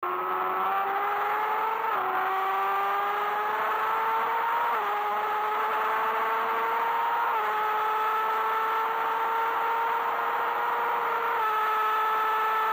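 BMW S1000RR inline-four engine accelerating hard through the gears, its pitch climbing steadily and dropping sharply at four quick upshifts, with the later gears climbing more slowly. Wind rush over the bike at high speed runs underneath.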